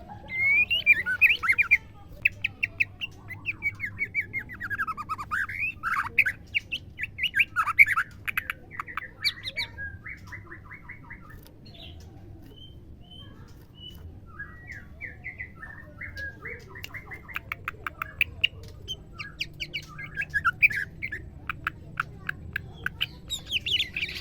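Female white-rumped shama calling: a varied run of whistled glides, harsh chatter and rapid clicking rattles. A quieter pause falls in the middle before the calling picks up again.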